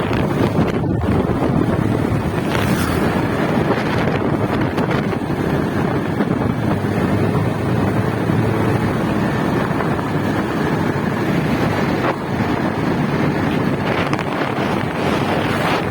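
Motorcycle engine running while riding, buried under heavy, steady wind noise on the microphone.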